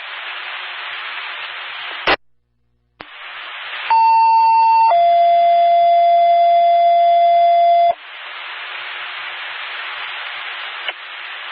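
Radio scanner hiss broken by a squelch click and a moment of dead air, then a two-tone sequential page: a higher steady tone for about a second, followed straight away by a lower tone held about three seconds, then open-channel hiss again. It is a dispatcher's tone-out, alerting a fire department to respond.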